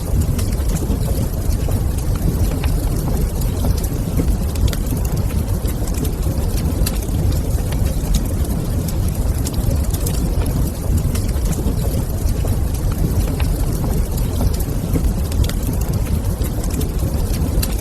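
Wood fire burning in a fireplace: a steady low rumble with scattered small, sharp crackles and pops throughout.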